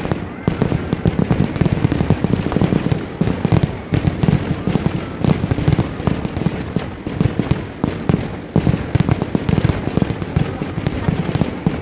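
Kerala vedikkettu fireworks: a dense, unbroken barrage of firecracker bangs, many a second, loud throughout.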